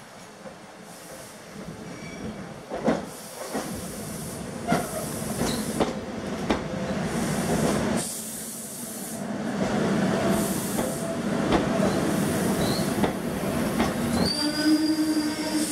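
SEPTA regional rail electric train coming into the station and running past close by: wheels knocking over rail joints and a hissing rush that grows louder as it nears. A short high squeal, wheel or brake, comes near the end.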